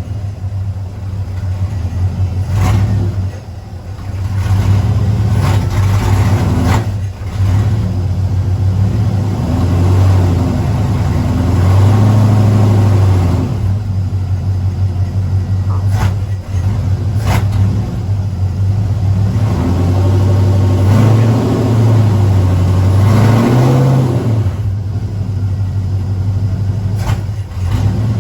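1961 Chevy Apache pickup's engine running and being revved, its pitch rising and falling in several long swells. A few sharp knocks cut through.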